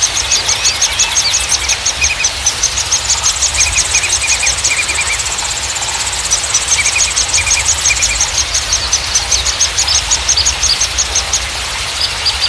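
Several small songbirds chirping and trilling in fast runs of repeated high notes, with scattered short chirps, over a steady rushing, rumbling background.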